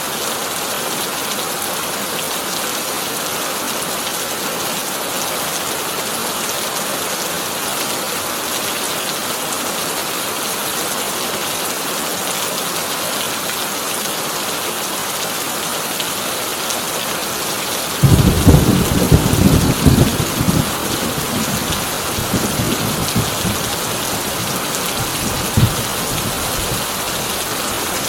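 Heavy rain drumming steadily on a corrugated tin roof. About two-thirds of the way through, a thunderclap breaks in suddenly, the loudest thing here, and rolls on in weaker rumbles for several seconds.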